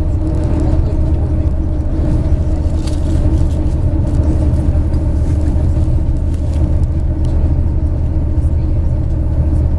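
MAZ 103.562 bus on the move, heard from inside the cabin: a steady engine drone and road rumble, with a few faint rattles.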